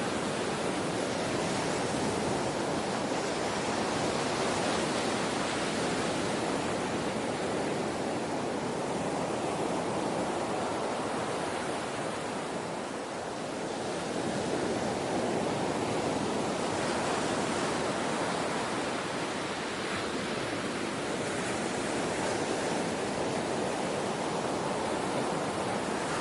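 Steady rushing water ambience, a continuous wash that swells and eases slowly, dipping briefly about halfway through.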